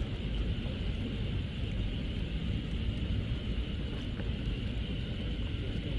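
Outdoor ambience: a steady low rumble, with an even high hiss above it.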